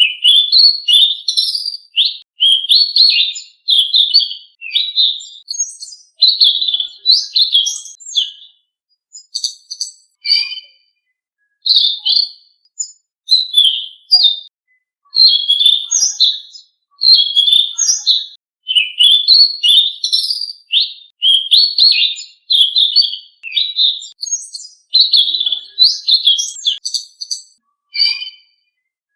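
Selendang biru songbird singing a long run of short, rapid, high warbling phrases with brief pauses between them. It is a recorded song used to prompt caged birds of the same kind to sing.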